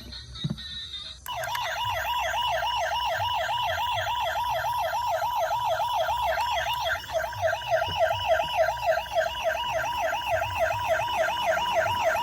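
Electronic toy siren sounding a fast, even warble, several wobbles a second, starting about a second in.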